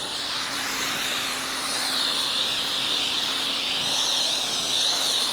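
Pressure washer spraying water in a steady hiss against the car's paint, with the washer's motor humming underneath.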